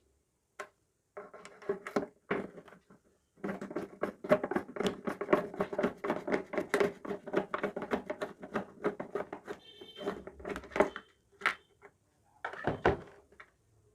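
Power screwdriver running in short bursts and then a long steady run with rapid clicking, driving the screws that fasten an electric geyser's casing shut; a few separate knocks near the end.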